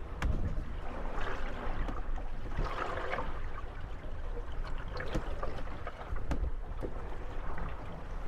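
Moored gondolas rocking on small waves: water slapping and sloshing against the hulls in swells every couple of seconds, with a few sharp knocks as the boats bump together.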